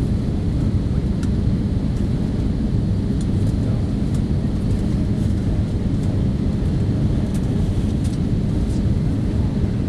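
Steady cabin roar inside an Airbus A318-121 on approach, from its CFM56 engines and the airflow over the fuselage, with a few faint light ticks from the cabin.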